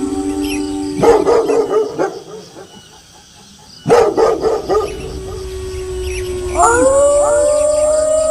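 Wolves howling mixed with dogs barking: a held howl, a sudden burst of barking about a second in, a short lull, another burst of barking around four seconds, then a long howl. Near the end several howls rise together and hold in a chorus.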